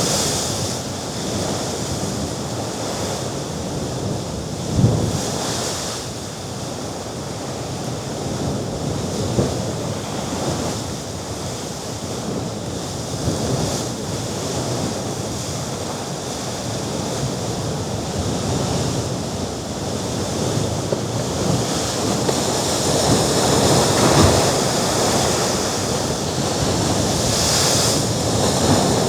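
Mediterranean Sea waves washing against the rocky shore below the cliffs, with wind across the microphone. The surf swells louder about three-quarters of the way through, and there is a short low thump about five seconds in.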